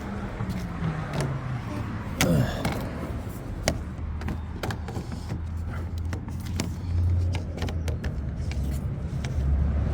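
Scattered light clicks and knocks of a window screen frame being handled and fitted into a window, over a steady low hum of a vehicle engine running.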